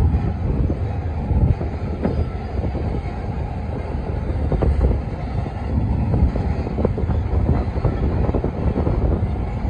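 Double-stack container freight train rolling past: a steady low rumble of steel wheels on the rails, broken by scattered sharp clicks and knocks as the cars go by.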